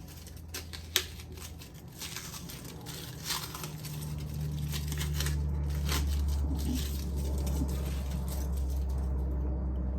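Wrapping crinkling and tearing as it is cut and peeled off a beer with a knife, with scattered sharp clicks and scrapes, the loudest about a second in. A low steady hum comes in about four seconds in.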